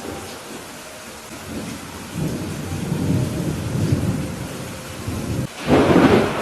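Thunderstorm with steady rain hissing. A low roll of thunder rumbles about two seconds in, and a sharper, louder thunderclap comes near the end.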